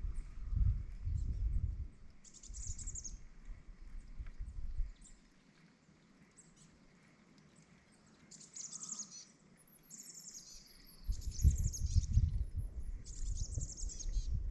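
Wild birds calling in several short bursts of quick high chirps, including a rapid very high trill in the second half, over a low rumble that fades out for a few seconds mid-way and returns louder near the end.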